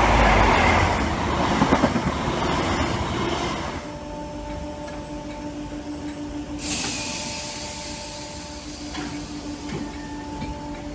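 Merseyrail Class 507/508 'Pep' electric multiple unit running through the station, its running noise dying away after about four seconds into a steady hum with a few even tones. A sudden hiss starts about two-thirds of the way through and carries on.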